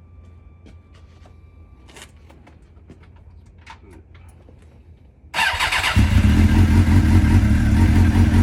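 Suzuki SRAD GSX-R600 inline-four being cold-started: a few faint clicks, then a little over five seconds in the starter turns it over briefly, the engine catches and settles straight into a steady idle.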